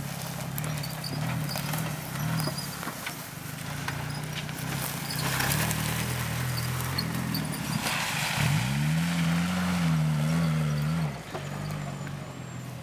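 4x4 engine running under load through mud. It revs up sharply about eight seconds in, holds high for about three seconds, then drops back, with splashing and clattering noise around the middle.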